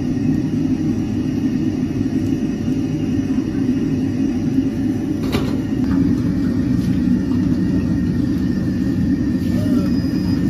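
Steady low roar of a stove fire burning under a pot, with a single sharp click about five seconds in.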